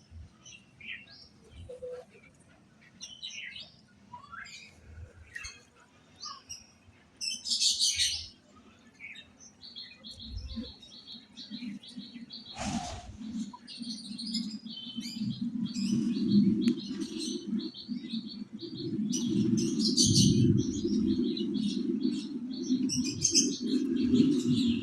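Small birds chirping and calling in many short chirps, with a fast, evenly repeated high call joining about ten seconds in. From about halfway a low rumble builds and becomes the loudest sound, with a brief whoosh just before it.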